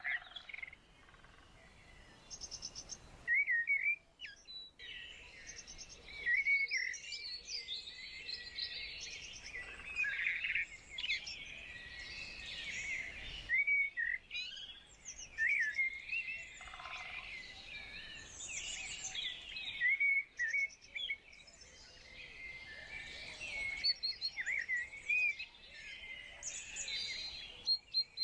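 Several songbirds singing and calling at once, a busy chorus of quick overlapping chirps and trills. It thins out from about half a second to three seconds in.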